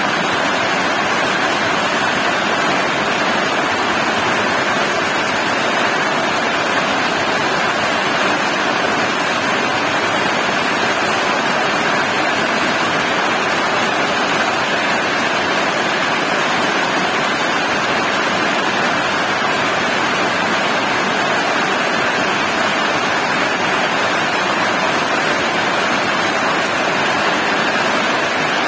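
Heavy rain falling, a steady dense hiss that holds at one level throughout.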